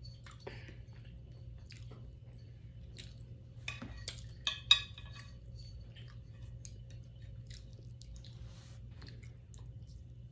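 Close-up eating: chewing and wet mouth smacks, with a cluster of sharp clicks about four to five seconds in.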